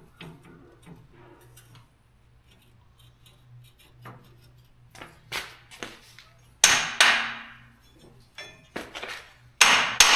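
Steel tools and parts knocking while working on a truck's rear axle: faint scattered clicks and taps at first, then sharp metal-on-metal strikes that ring on. Two strikes come close together about two-thirds of the way through, and a quick run of louder strikes comes at the end.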